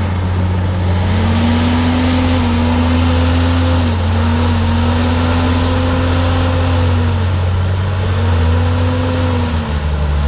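Komatsu D51PX bulldozer's diesel engine running loud and steady, its pitch dipping briefly and coming back up about four seconds in, again about eight seconds in, and near the end.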